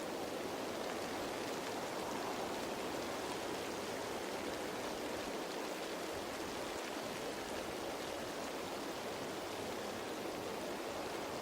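Steady rain falling on leaves: an even hiss of many small drops, with no single drop standing out.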